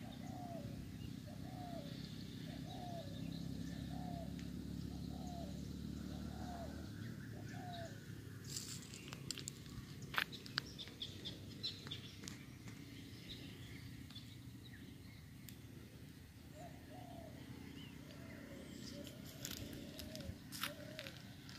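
A bird repeating one short, low call a little over a second apart: seven calls, a pause, then four more near the end. Scattered rustling clicks come in the middle and near the end.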